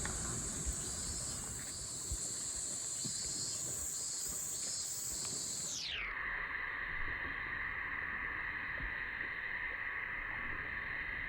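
A steady, high-pitched chorus of summer cicadas. About six seconds in, the whole sound slides down to a low, steady drone, as the audio is slowed down for slow motion.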